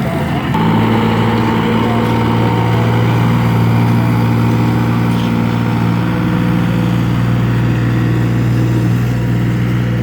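Tractor engine running steadily, growing louder about half a second in and then holding an even note.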